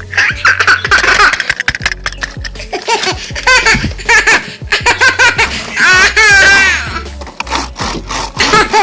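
Cartoon-style giggling and laughing voices, high and warbling, in quick repeated bursts over background music with a steady bass line.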